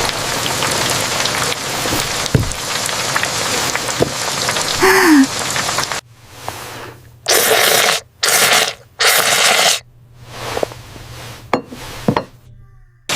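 Steady rain, a dense even hiss, with a single short falling call about five seconds in. In the second half the rain sound cuts in and out abruptly in separate patches, with near-silent gaps between them.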